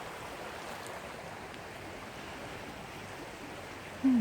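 Steady wind noise, an even rushing hiss. Near the end a short falling vocal sound, like a low hum, cuts in.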